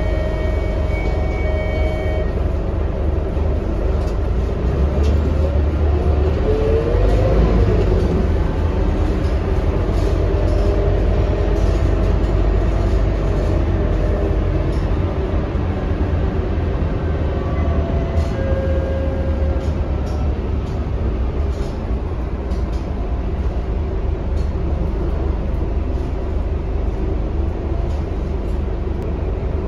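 Scania K230UB city bus running in service, with its five-cylinder diesel and road noise making a steady, loud rumble. A pitch rises and falls a few seconds in. Short steady tones sound at the start.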